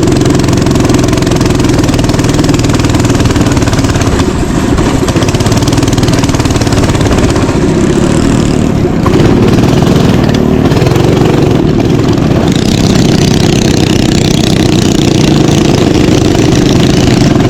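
Mini bike's small engine running continuously, a little louder from about nine seconds in.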